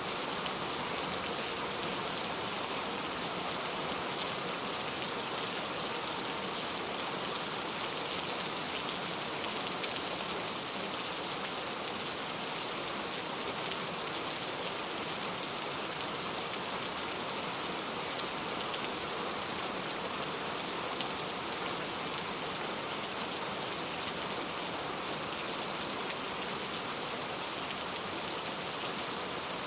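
Steady rain falling, an even hiss with faint scattered drop patter.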